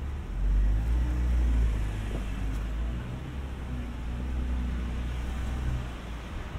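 A motor vehicle's engine running close by as a low rumble, loudest from about half a second to two seconds in, then easing off, over a steady hiss from the wet street.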